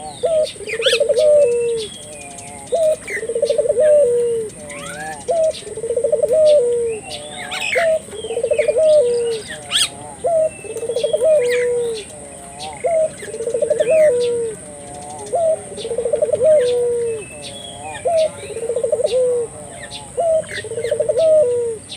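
Puter dove (Barbary dove) cooing steadily: the same stuttering coo phrase ending in a falling note, repeated about every one and a half seconds. Small birds chirp faintly in the background.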